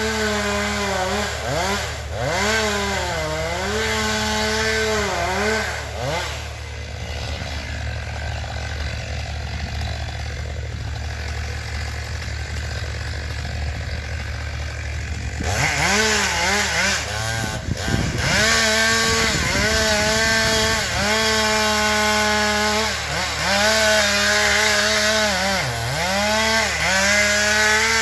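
Two-stroke chainsaw cutting into a maple trunk: the engine pitch repeatedly sags under load and picks back up. For about ten seconds in the middle it settles to a lower, steadier sound, then it revs up and cuts again.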